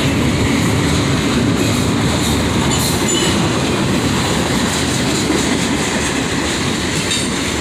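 Freight train cars rolling past, a steady loud rumble of wheels on rail, with a faint high squeal about three seconds in.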